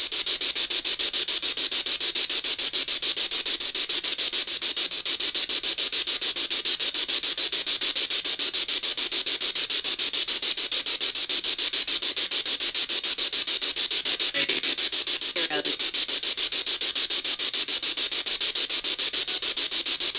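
Spirit box (ghost box) sweeping through radio frequencies: a steady hiss of static chopped in a rapid, even rhythm, with brief snatches of broadcast voice around two-thirds of the way through, the kind of fragments taken for spirit replies.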